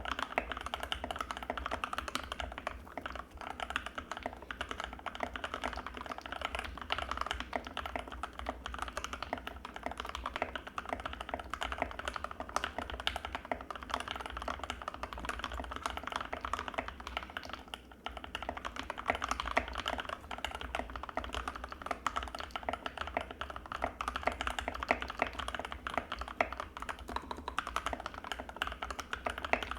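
Fast, continuous typing on an Anne Pro 2 mechanical keyboard with linear Gateron Red switches: a dense stream of keystroke clacks, with a short pause a little past halfway.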